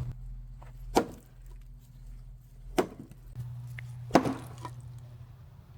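An axe striking firewood three times, sharp knocks about one and a half to two seconds apart, over a low steady hum.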